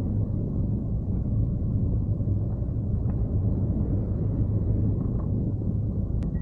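Steady low rumble of wind buffeting the microphone in flight, with a sharp click and a brief high beep near the end.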